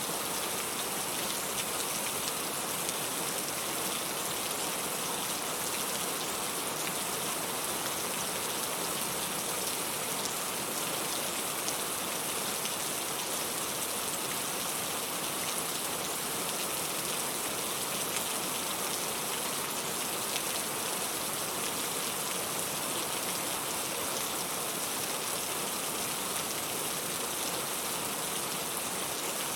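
Steady rain falling, an even hiss of many fine drops with no thunder.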